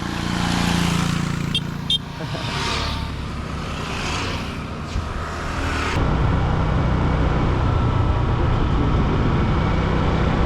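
Road vehicle on the move: engine and wind rumble with several passing whooshes and two short ticks about two seconds in. About six seconds in, the sound changes abruptly to a steadier low rumble.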